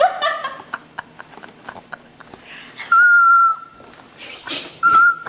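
A person's high-pitched, wheezy squealing laugh: two held squeals, the first about three seconds in and bending down at its end, a shorter one near the end, with gasping breaths between.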